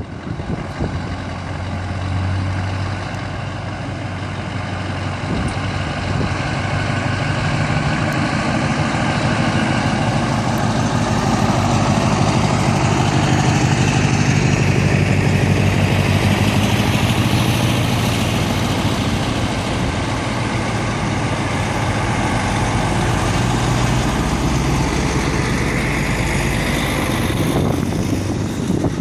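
Heavy diesel truck engine running steadily at low revs, louder through the middle stretch as a truck moves past.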